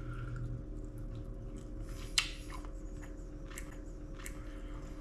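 A person chewing a mouthful of cooked snapper, with soft small mouth clicks and one sharper click about two seconds in, over a steady low hum.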